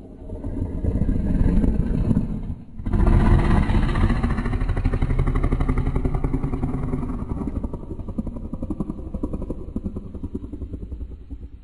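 Deep, rough monster roar sound effect in two parts: a roar that swells over the first couple of seconds and breaks off briefly, then a longer, louder roar that slowly fades away near the end.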